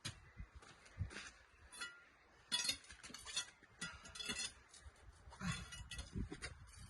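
Scattered metallic clinks and knocks with a few dull thumps, as a heavy truck wheel is shifted and worked onto its hub.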